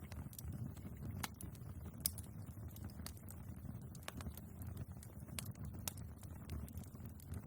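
Wood fire burning in a fireplace: irregular sharp crackles and pops of the logs over a low steady rumble of the flames, with the loudest pop about two seconds in.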